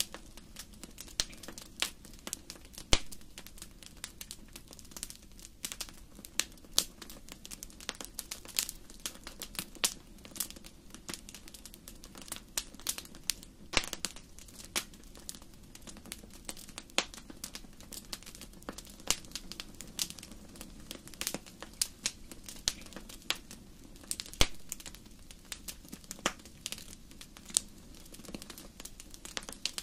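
Wood fire burning in a fireplace: irregular crackles and snaps over a low steady rush of the flames, with a few sharper pops standing out, one about three seconds in and another near twenty-five seconds.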